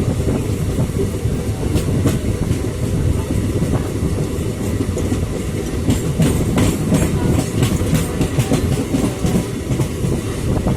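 Electric multiple-unit (EMU) train running on the rails: a steady heavy rumble with wheels clacking over rail joints, the clacks coming thickest past the middle.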